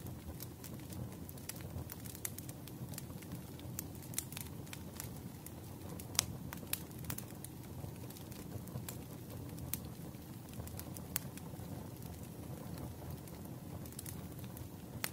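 Wood fire crackling in a fireplace: a low steady rumble of flames with irregular sharp pops and snaps, the loudest pop about six seconds in.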